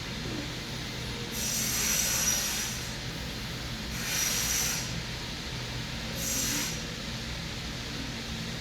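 Three forceful, hissing breaths through the nose, a few seconds apart, during pranayama breathing practice. A steady low hum runs underneath.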